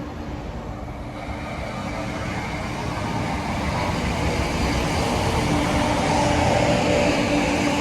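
Diesel multiple-unit train approaching, its engines humming with a steady tone that grows steadily louder.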